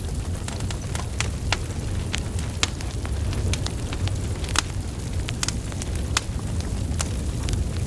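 Wood fire burning: steady low rumble of flames with frequent sharp, irregular crackles and pops from burning logs, one louder pop a little past halfway.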